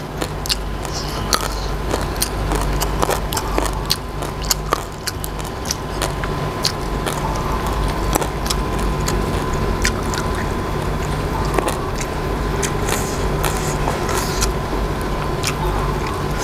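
Close-up chewing and crunching of crisp raw herbs and vegetables, heard as irregular sharp crunches and clicks over a steady low hum.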